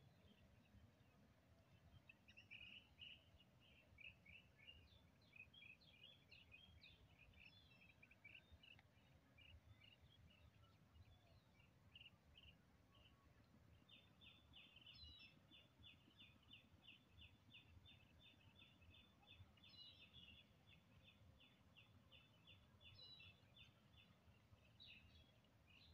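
Faint birdsong: scattered short high chirps, then about halfway through a long run of evenly repeated notes, roughly three a second, over a low steady rumble.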